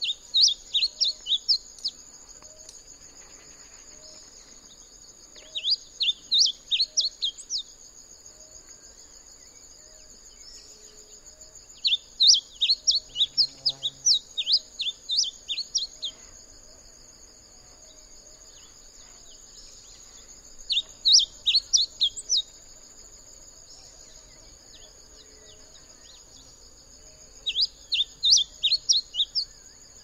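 Orange-breasted bunting singing: five bouts of quick, high chirping notes, each lasting a second or two, the middle one longest. Under the song runs a steady high insect drone.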